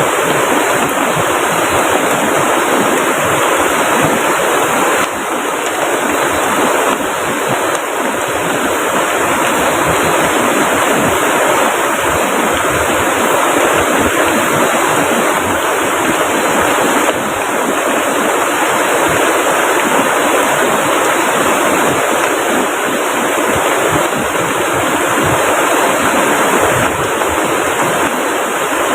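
Heavy rain falling steadily with a rushing river, a dense, even hiss that does not let up.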